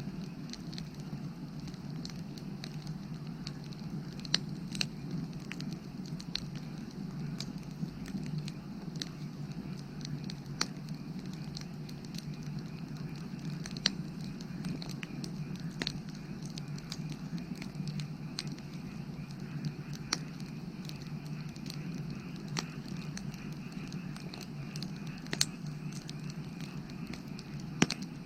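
Firewood burning: irregular crackles and sharp pops, a few of them louder, over a steady low background.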